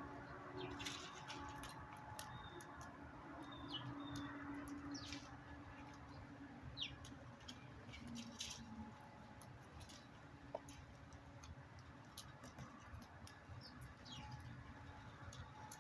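Small backyard birds giving faint, scattered short chirps, a few of them sliding down in pitch, over a low steady background hum.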